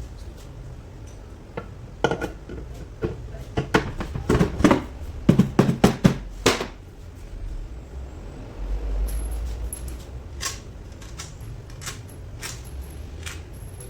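Metal parts and tools clanking and knocking during gearbox disassembly: a run of loud strikes from about two to seven seconds in, then lighter scattered clicks.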